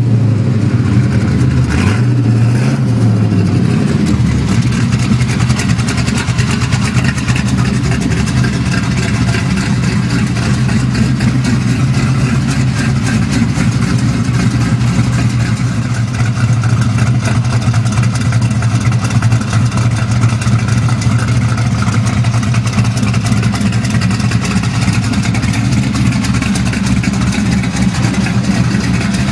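Twin-turbocharged Ford Mustang 4.6-litre V8 idling steadily, with one short blip of the throttle, rising and falling, about two to three seconds in.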